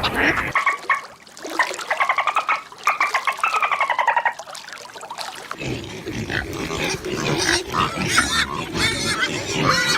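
Pigs squealing and grunting: a run of rapid, pulsing calls in the first half, then a busier, noisier stretch.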